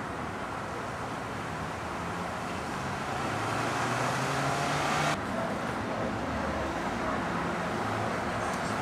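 Street traffic noise: cars running along a road, with a low engine hum that grows louder toward the middle.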